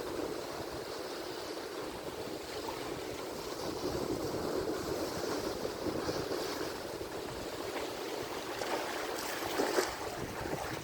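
Atlantic Ocean waves washing on the shore, a steady rushing surf that swells and eases, with a brighter splash of breaking water near the end.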